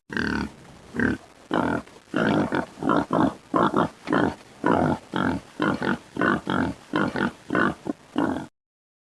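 Pig grunting and oinking in a quick run of short grunts, about two or three a second, that cuts off shortly before the end.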